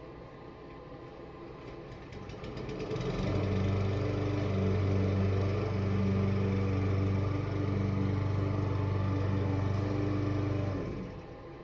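Small gasoline engine of lawn equipment running at a steady speed: it swells up over a second or so, holds an even pitch, and stops quickly near the end.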